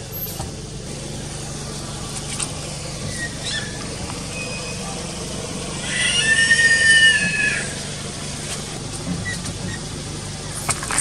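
Car engine idling steadily. About six seconds in, a loud, high, drawn-out cry lasts about a second and a half, and a few light clicks come near the end.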